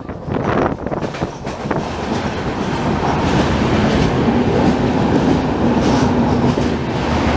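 Passenger train running on the track, heard from on board: wheels clattering and a steady rumble. Wind buffets the microphone for the first second or so, then the running noise grows louder and more even from about two seconds in.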